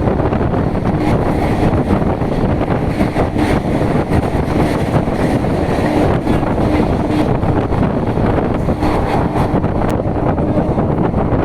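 Indian Railways suburban local train heard from on board while running at speed: a loud, steady rumble of wheels on track with wind rushing over the microphone.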